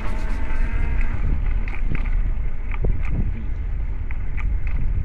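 Wind buffeting the microphone with a steady low rumble while cycling, with scattered small clicks and rattles from the bicycle. A little music fades out in the first second.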